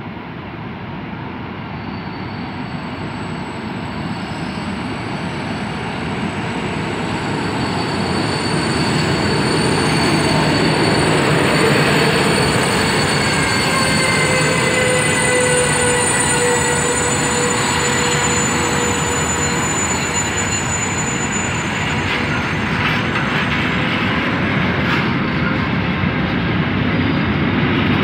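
Intermodal freight train hauled by an Rh 1293 (Siemens Vectron) electric locomotive running through a station. Its rumble grows over the first ten seconds as it approaches, then holds steady as the locomotive passes and the flat wagons roll by, with thin high wheel squeals coming and going around the middle.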